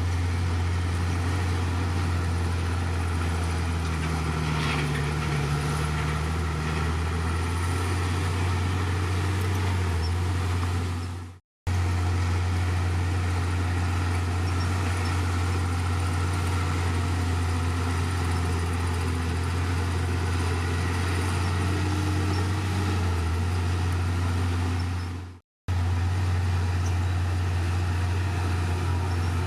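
Heavy diesel engine of a bulldozer running steadily with a deep, even drone. The sound cuts out briefly twice.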